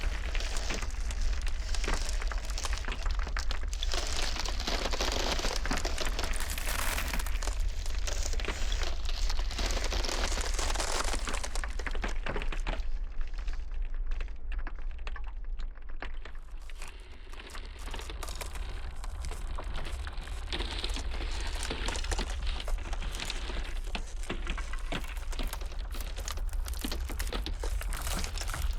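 Ice cracking and crackling in a dense run of small cracks over the steady low rumble of blizzard wind. The crackle thins out for a few seconds about halfway through, then picks up again.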